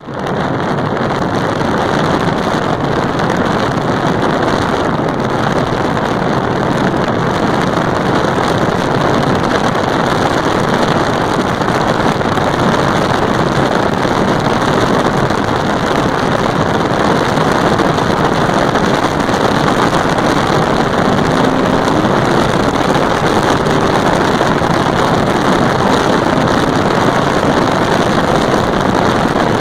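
Steady rush of wind on the microphone of a moving motorcycle, with the motorcycle's engine running underneath.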